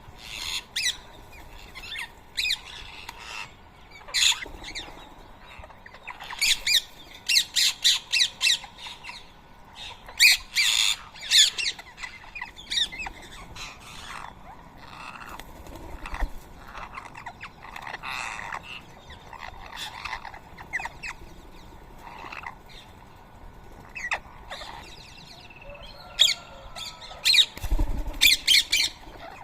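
Rose-ringed parakeets calling with shrill, harsh squawks, short calls coming in quick clusters, with a brief low thump near the end.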